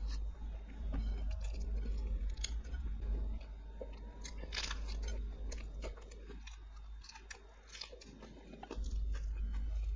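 Close-miked chewing and biting of food, with many irregular sharp clicks, over a steady low hum.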